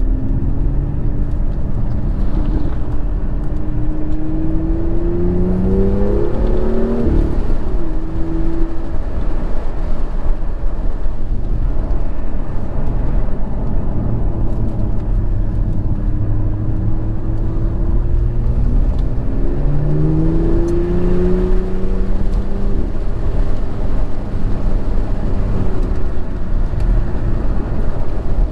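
BMW M2 Competition's twin-turbo straight-six under way on a mountain road, over a steady low drone. The engine pitch climbs twice as the car accelerates, once about five seconds in and again about twenty seconds in, and drops back each time.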